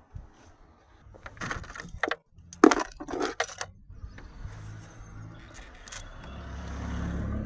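Small metal objects clinking and jangling several times, followed by a low steady hum that builds up toward the end.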